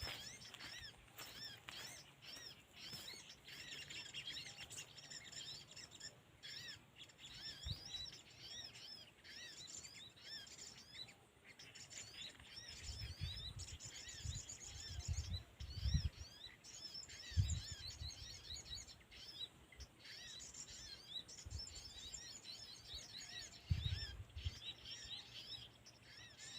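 Small songbirds chirping, a faint, rapid run of short high chirps repeating throughout, with a few low thumps in the middle and again near the end.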